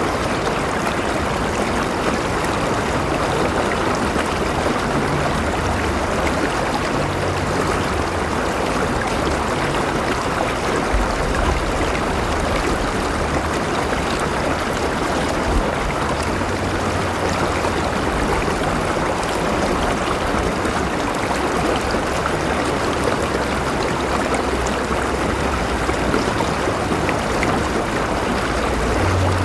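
A river flowing steadily over stones, a constant rushing with some gurgling and a low rumble that swells and fades now and then.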